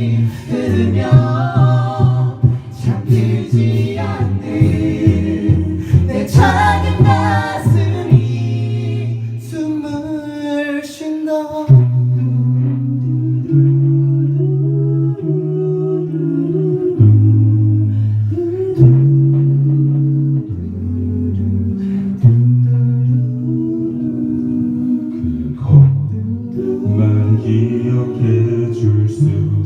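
A cappella vocal group singing in multi-part harmony without instruments, with sharp percussive hits in the first dozen seconds. After that a low bass voice holds long notes under the chords.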